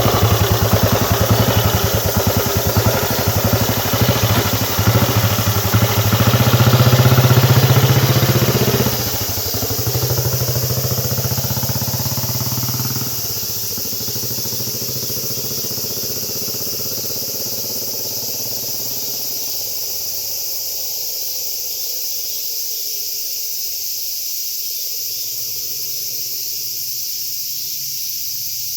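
Meguro S3 250cc single-cylinder four-stroke engine running with an even beat, then dropping back about nine seconds in and slowing through about four seconds, leaving a lower, quieter running beat under a steady hiss that fades out.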